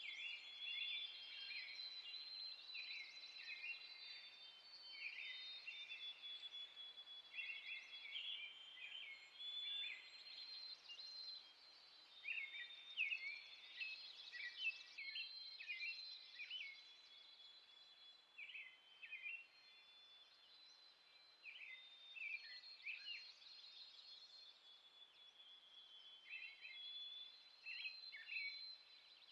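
Faint forest songbirds twittering: clusters of short, high chirps every second or two, with thin, high whistled notes held above them.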